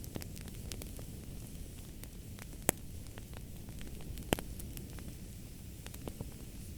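Wood fire crackling over a steady low rumble and hiss, with scattered small ticks and two sharp pops, one a little under three seconds in and another about a second and a half later.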